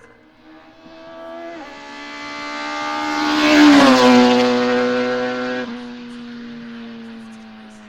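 A hillclimb race car accelerates up the course and passes close by. Its engine pitch climbs, drops abruptly at two upshifts, and falls as it goes past, loudest near the middle, then fades as it carries on up the hill.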